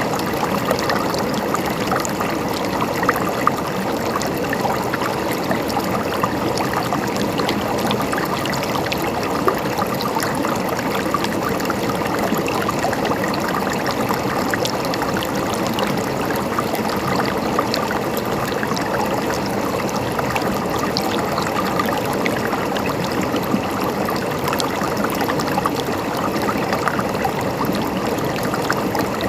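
Running water trickling and gurgling steadily, with many small splashes.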